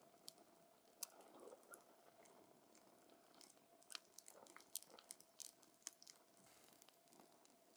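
Wood fire crackling, with irregular sharp pops and snaps from the burning logs over a faint hiss.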